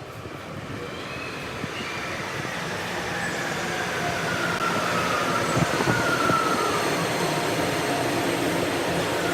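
A train running past, growing steadily louder, with whining tones that slide slowly down in pitch. The whole sound is played at double speed, which raises its pitch and quickens it.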